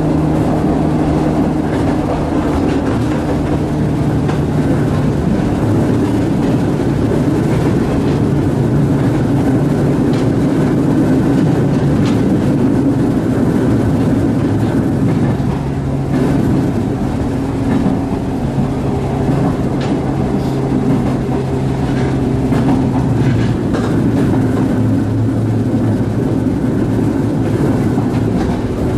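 Cabin noise of a JR West 105 series electric train running between stations: a loud, steady rumble of wheels on rail and running gear, with a low hum that steps in pitch now and then and a few faint clicks.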